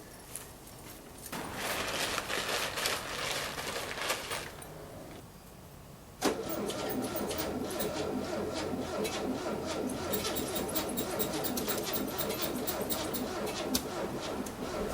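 1968 VW Type 3 Fastback's air-cooled flat-four being cold-started on a weak battery, with chokeless aftermarket carburettors: it cranks for about three seconds and stops, then catches suddenly about six seconds in and keeps running steadily.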